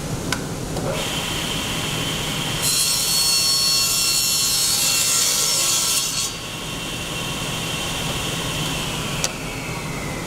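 Table saw ripping a thin board fed along the fence: the blade's high whine, then a loud cutting hiss for about three and a half seconds as the board goes through. After the cut the whine falls slowly in pitch as the blade runs on, with a single click near the end.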